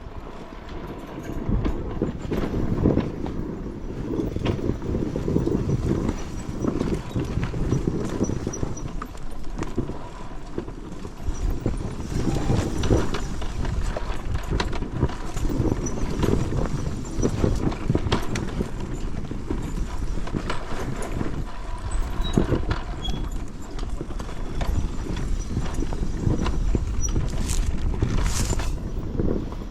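Dirt bike descending a rocky trail: a continuous, irregular clatter of knocks and rattles as the tyres, suspension and chassis hit the rocks.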